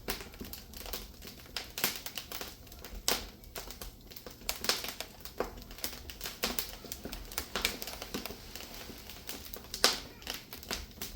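Firewood crackling as it burns under a traditional iron cauldron (gamasot): a steady stream of irregular sharp pops and snaps, with one louder pop near the end.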